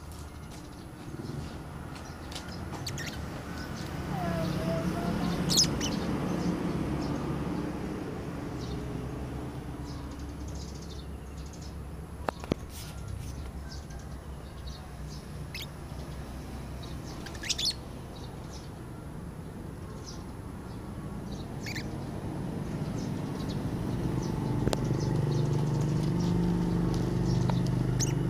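Pet lovebird giving a few short, shrill chirps, spaced several seconds apart, over a low background rumble that swells twice.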